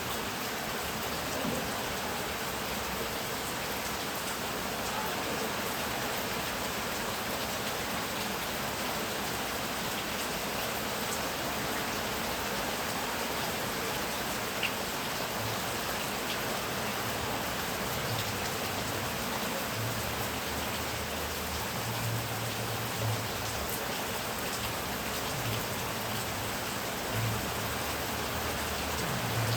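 Heavy rain falling in a steady, even hiss. In the second half a low rumble comes and goes beneath it.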